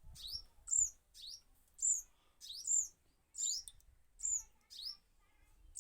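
A small bird chirping: a series of short, high-pitched calls, each a quick sweep in pitch, repeated about once or twice a second.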